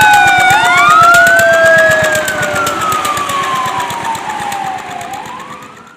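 Emergency vehicle siren wailing, its pitch sweeping slowly up and down, with a fast rhythmic ticking underneath; it fades away over the last few seconds.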